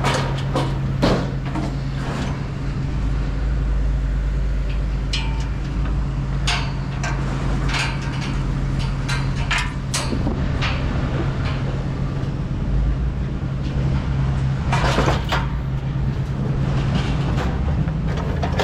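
Steady low hum of a running engine, with scattered knocks and clatter of hard objects being handled, a busier cluster about fifteen seconds in.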